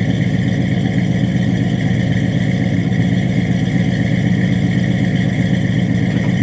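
Ford 7.3L Godzilla gasoline V8 idling steadily through a custom exhaust with long-tube headers and mufflers, with a deep, even rumble.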